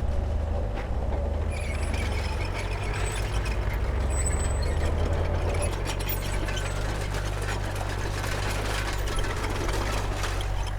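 Diesel engine of a Komatsu D31P crawler bulldozer running steadily, with a dense metallic clatter of clicks and clanks over it from about two seconds in.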